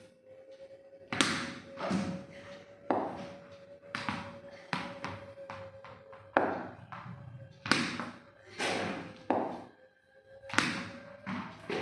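A series of sharp thuds and knocks, about a dozen at irregular intervals of roughly one a second, each with a short ringing tail, over a faint steady hum.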